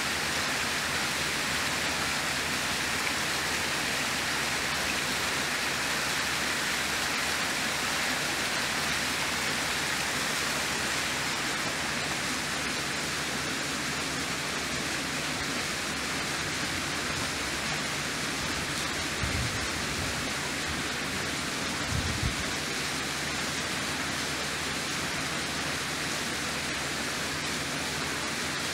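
Steady, even rushing noise, like rain or hiss, with two brief low thumps about two-thirds of the way through.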